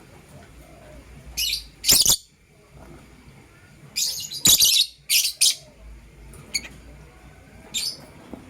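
Lovebirds giving a string of short, shrill, harsh chirps at irregular intervals, some in quick pairs.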